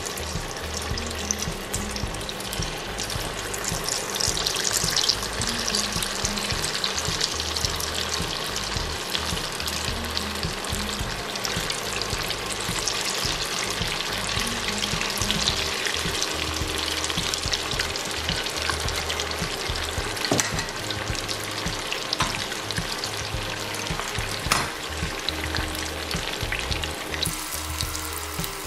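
Corn fritter batter deep-frying in hot oil: a steady, dense sizzle and bubbling, with a few sharp pops.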